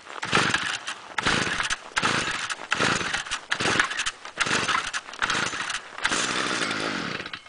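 Stihl FS-45 two-stroke string trimmer being pull-started in deep cold, firing and sputtering in short bursts about once a second with each pull. Near the end it runs for a little over a second, nearly catching.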